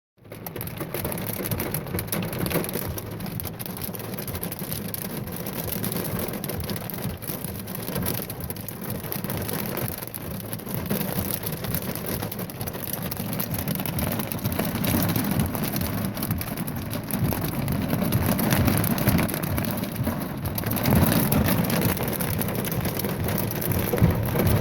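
Heavy rain and pea-sized hail drumming on a vehicle's roof and windshield: a dense, steady patter of small hits.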